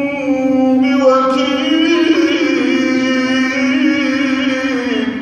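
Male Quran reciter chanting in melodic tajwid style, holding one long ornamented vowel whose pitch wavers up and down, then drops just before it ends.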